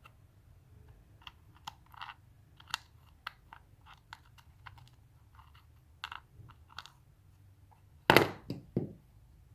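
Light, irregular clicks and taps of small hard parts being handled, then two louder knocks close together near the end.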